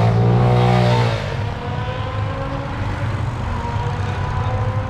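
A vehicle engine revs briefly in the first second, pitch rising then falling, then settles to a quieter steady running sound.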